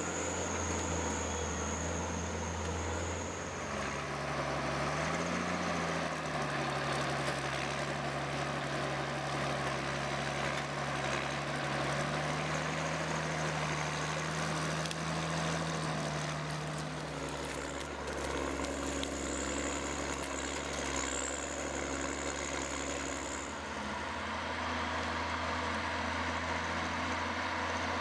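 An engine of a large machine running steadily, its low hum shifting slightly in pitch about five seconds in. A thin high whine sounds at the start and again around twenty seconds in.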